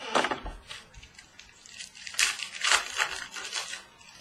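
Crinkling and rustling of a foil trading-card pack and the cards being handled, in two bursts: one right at the start and a longer one about two seconds in.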